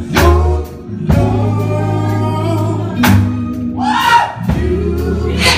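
Gospel music: singing over instrumental backing, with sustained bass notes and regular sharp beats.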